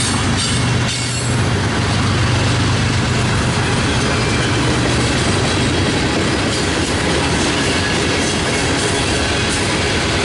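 Freight train passing close by: a diesel locomotive's low engine drone fades about five seconds in, while the cars roll past with a steady rumble and clatter of wheels on rail.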